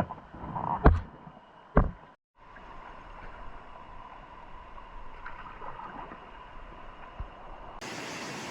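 Running river water with a few sharp knocks and splashes in the first two seconds, then a steady flow of water with small splashes. Near the end it switches to a louder, fuller rush of water.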